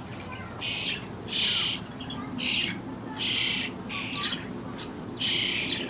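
Young fledgling birds giving begging calls for food as they are hand-fed: about six short, harsh calls, each under a second.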